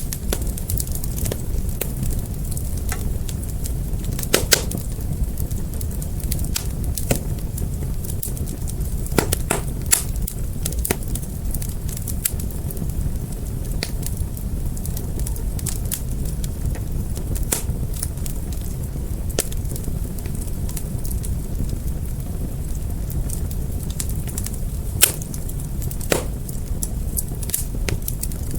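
Wood fire crackling: a steady low rush of flames with scattered sharp crackles and pops. The loudest pop comes about twenty-five seconds in, with others around four and ten seconds.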